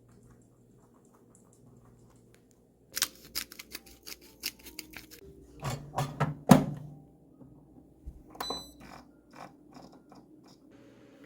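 Objects being handled and set down by hand: a run of sharp clicks and light knocks, the loudest about six and a half seconds in, with one short ringing clink a little after.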